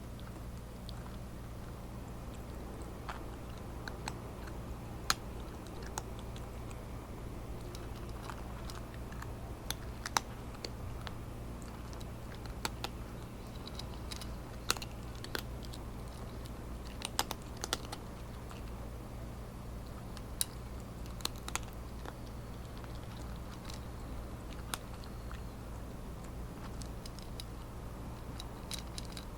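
Cat crunching dry kibble close to the microphone: irregular sharp crunches, a few seconds apart, over a steady low hum.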